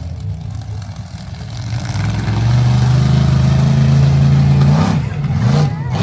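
Monster truck engine revving: the revs climb over about two seconds and hold high and loud, then fall and waver near the end as the throttle comes off and goes back on.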